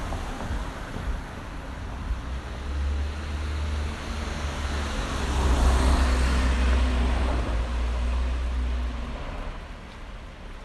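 A motor vehicle driving past, its low rumble growing louder to a peak about six seconds in and then fading away.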